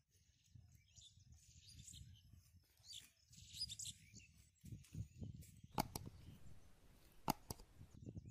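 Faint bird chirps over a low rumble, with three sharp clicks in the second half that stand out as the loudest sounds.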